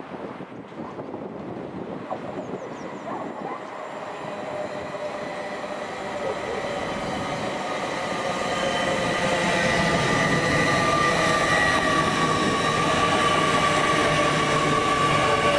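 A train approaching along the main line, growing steadily louder over about ten seconds into a close pass, with a steady high whine over the rumble of the wheels on the rails.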